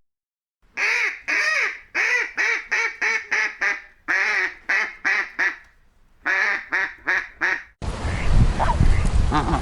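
A duck quacking in quick runs, about two to three quacks a second, in three bursts with short pauses between. Near the end the quacking stops and a steady hiss comes in.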